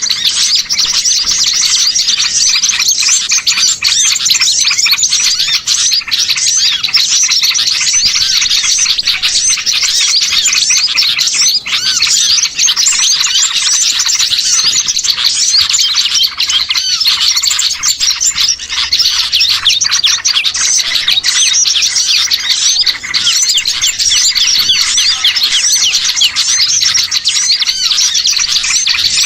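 Bird-lure recording of many small songbirds chirping and twittering at once: a dense, unbroken chatter of rapid high chirps.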